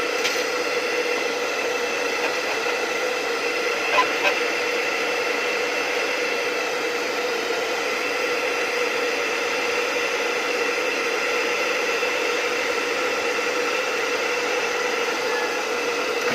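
Handheld hot-air blower running steadily with an even whirring hiss and hum, heating a speaker dust cap's edge to soften its glue. A couple of light clicks about four seconds in.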